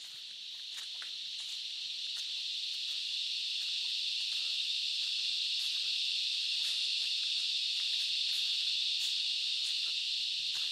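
Chorus of cicadas in rainforest, a steady high-pitched shrill that swells in loudness over the first few seconds and then holds. Faint scattered ticks sound beneath it.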